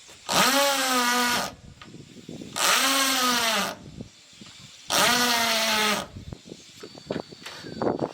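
A power tool running in three bursts of about a second each, evenly spaced, each at a steady pitch.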